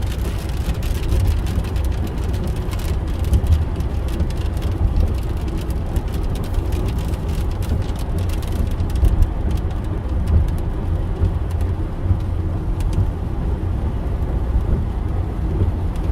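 Inside a moving car in a heavy downpour: a steady low road and engine rumble, with rain striking the car body as a dense stream of sharp little ticks.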